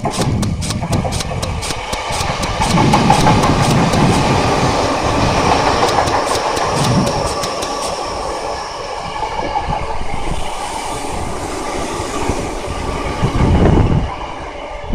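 Toyo Rapid Railway 2000 series electric train passing through a station at speed without stopping. Wheels clack rapidly over rail joints for the first several seconds, then it runs on as a steady rumble with a faint high whine, easing off shortly before the end.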